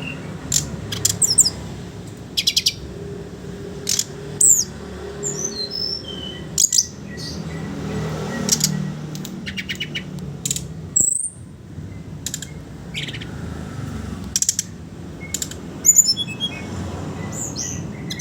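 Brown-chested jungle flycatcher (SRDC) singing: rapid high chattering trills alternating with short clear whistled notes, phrase after phrase with brief gaps. A steady low hum runs underneath.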